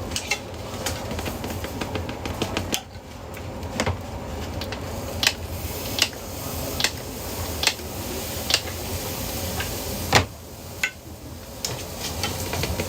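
Irregular sharp clinks and taps of cooking utensils against pans and cookware, roughly one a second, over a steady background hum.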